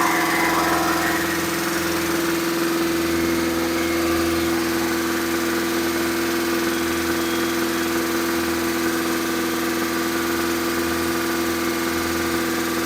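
Engine running at a steady, constant speed during its camshaft break-in, with the lifters a little louder than expected.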